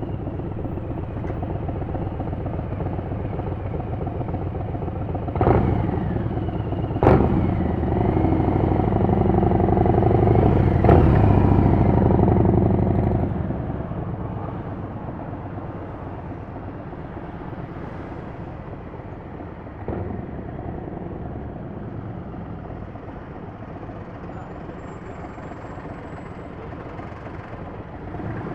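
Motorcycle engine running in street traffic, growing louder from about eight seconds in to a peak around twelve seconds, then fading away. A few sharp knocks sound between about five and eleven seconds in.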